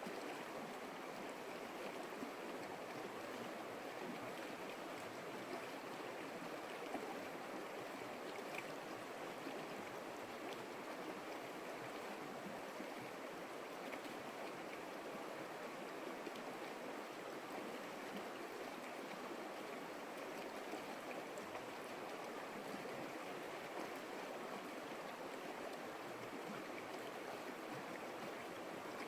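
Water of a small stream running, a steady even rush of flowing water.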